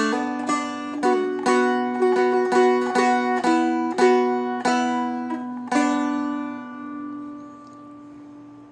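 Seagull Merlin M4, a four-string dulcimer-style instrument, plucked in a run of about a dozen melody notes over ringing drone strings. The last note, about six seconds in, is left to ring and fade away.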